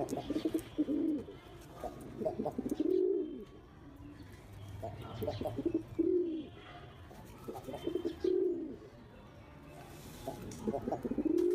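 A domestic King pigeon cooing: about five low coo phrases two to three seconds apart, each a short run of quick notes swelling into a rising-then-falling coo.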